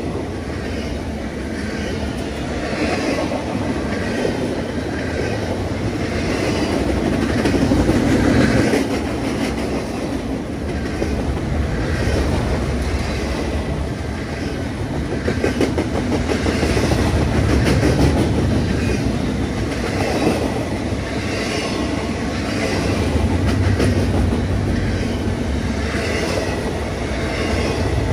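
Double-stack container freight train rolling past: a steady rumble of the wagons with a regular clickety-clack of the wheels over the rail joints.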